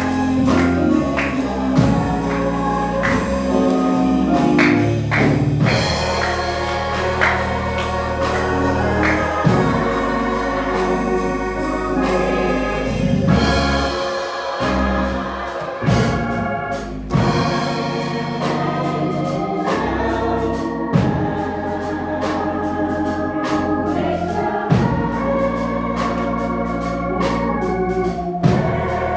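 Gospel music with organ, drums and choir singing, played at a steady beat.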